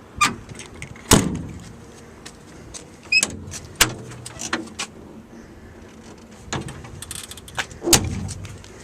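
Metal compartment doors of a truck service body being unlatched, opened and slammed shut: a series of sharp clanks and latch clicks, the loudest about a second in and near the end.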